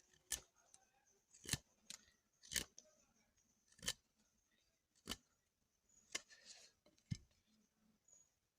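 A series of sharp clicks or snips, about eight of them at roughly one a second, over a faint steady high tone.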